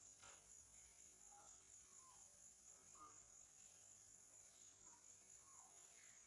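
Faint insect chorus, a steady high-pitched shrill drone, with a few faint short chirps scattered through it.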